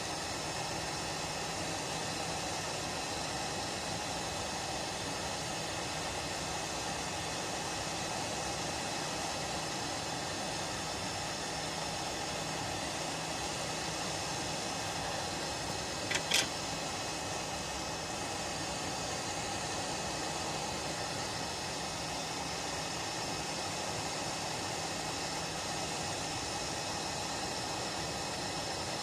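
An electric blower running steadily, a hiss with a faint high whine, with one short sharp click about sixteen seconds in.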